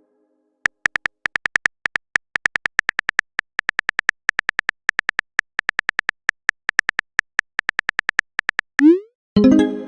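Phone-keyboard typing sound effect: a long run of quick, uneven tapping clicks, about four or five a second. Near the end comes a short rising swoosh, then a synth chord begins.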